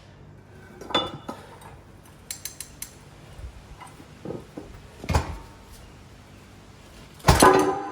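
Metal tools clinking and knocking against steel while working on truck motor-mount bolts: scattered light clinks, a sharper knock about five seconds in, and a louder ringing clank near the end.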